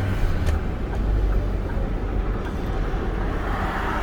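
Ford F-450 bucket truck's turbodiesel engine running steadily and road noise, heard from inside the cab while driving.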